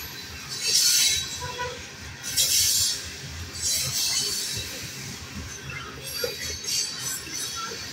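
Kansas City Southern grain train's covered hopper cars rolling past at speed: a steady low rumble of wheels on rail, with a burst of high hiss coming back about every one and a half seconds.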